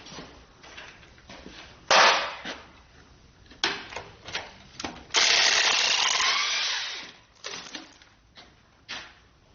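Metal tools clanking and knocking on engine parts during an engine teardown, several sharp strikes, with a loud steady noise lasting about two seconds near the middle.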